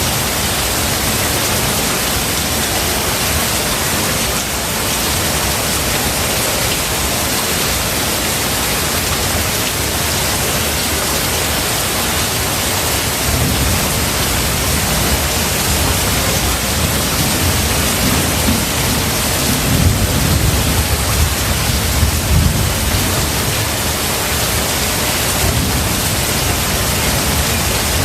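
Heavy, steady rain on a thunderstorm recording. Partway through, a low rolling rumble of thunder builds for several seconds, peaks, and fades back into the rain.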